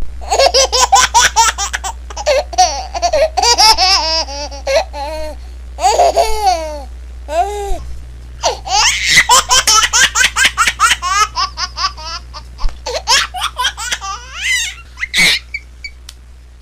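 A baby laughing hard in long runs of quick, high-pitched laughs, with a couple of short breaks in between.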